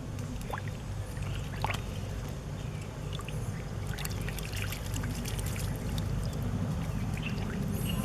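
Muddy water sloshing and trickling, with scattered small knocks, over a steady low rumble.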